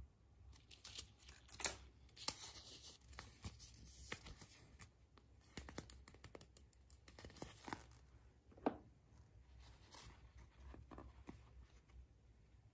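Packaging being torn open by hand: a run of tearing and rustling with scattered sharp clicks. It is busiest in the first eight seconds, then thins out to a few softer handling sounds.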